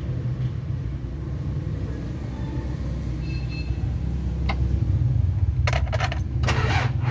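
Mitsubishi 4D56 diesel engine being turned over by its starter, a steady low rumble, with a few sharp clicks and rattles near the end. The slow cranking is the sign of a weak starter motor.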